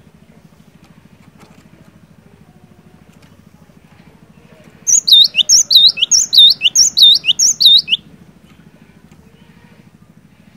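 Cinereous tit (glatik batu) singing a loud, fast run of repeated high, sweeping notes for about three seconds, starting about five seconds in. A faint steady low hum runs underneath.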